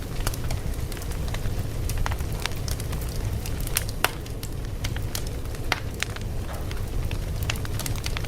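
Fire crackling: a steady low rumble with frequent sharp, irregular pops and snaps.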